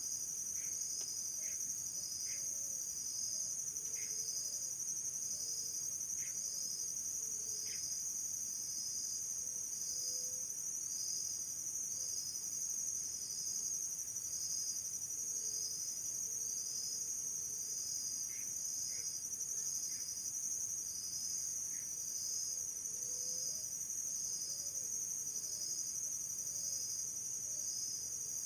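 Insect chorus shrilling steadily, with a pulsing note repeating a little more than once a second and a few faint short chirps over it.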